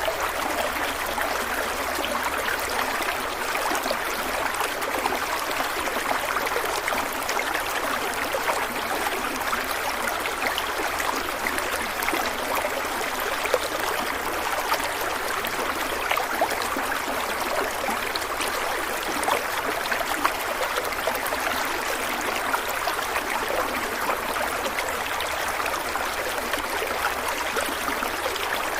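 Stream water running and trickling over stones in a steady, even rush.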